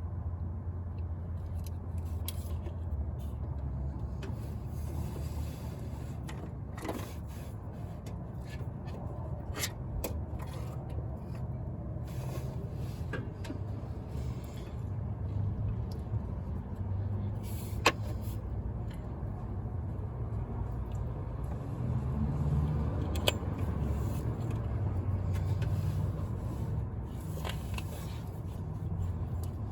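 A low steady rumble like nearby traffic or a running vehicle, growing louder about two-thirds of the way through, with a few sharp clicks and taps from hand work on the power steering hose fitting.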